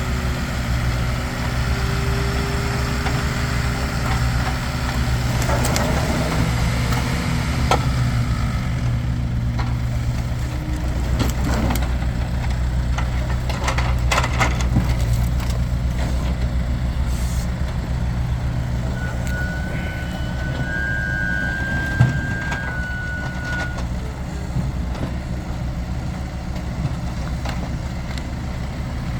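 A heavy engine running steadily, with occasional sharp knocks and cracks of firewood being handled, the loudest knock about two thirds of the way through.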